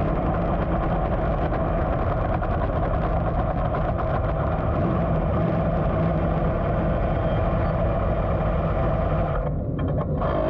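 358 small-block dirt modified engine running steadily at low speed, a constant low drone with no revving.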